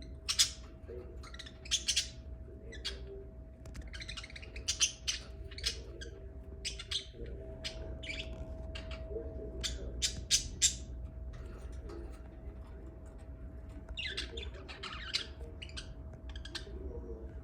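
Lovebirds chirping and squawking: many short, sharp, high-pitched calls in irregular flurries, over a faint steady hum.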